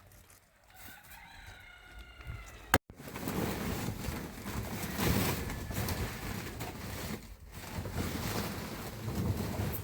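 A rooster crows once, a call of a little under two seconds, ending in a sharp click. Then comes a louder, steady rushing noise with no clear pitch.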